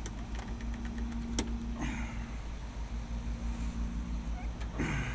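Steady low machine hum over a low rumble, with one sharp click about a second and a half in and two brief falling-pitch sounds, one midway and one near the end.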